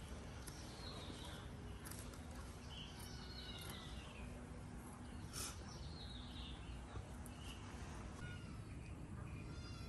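Faint high chirping of small birds in the background: short scattered calls and little gliding notes, with a few soft clicks over a low steady hum.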